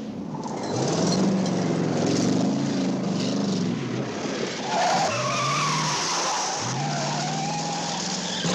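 Pontiac Trans Am V8 engine revving hard, its note climbing and settling three times as it pulls through the gears. Tyres squeal in the second half as the car slides.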